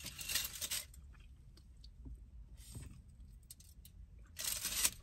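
Food packaging being handled: two brief rustles, near the start and shortly before the end, with scattered small clicks in between.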